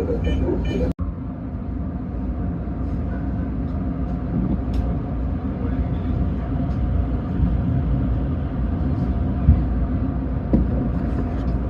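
Electric commuter train running with a steady low rumble. In the first second a quick, evenly repeated high beeping cuts off abruptly.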